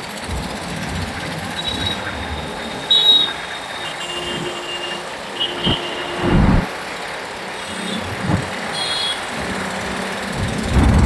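City road traffic heard from a moving motorcycle: a steady rush of engines and road noise, with several short beeps and honks from vehicle horns and a louder vehicle passing about six and a half seconds in.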